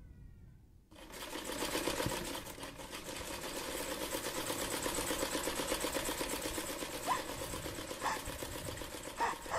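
A sewing machine running fast and steadily, its mechanism clattering in a rapid, even rhythm that starts about a second in.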